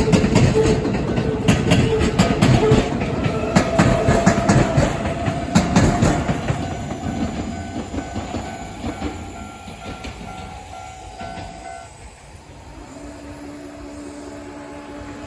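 Electric train passing over a level crossing, its wheels clattering over the rail joints, then fading away over the second half.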